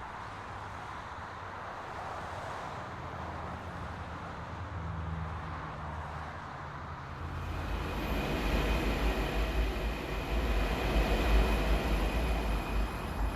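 Santiago Metro AS-02 train running between stations: a steady low rumble of the train on the track. About seven seconds in it grows louder, and a high steady whine joins it.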